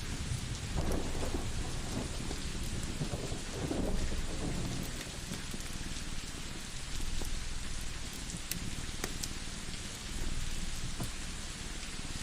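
Steady rain with a low roll of thunder about one to four seconds in, and sharp crackles, like a wood fire's, scattered through.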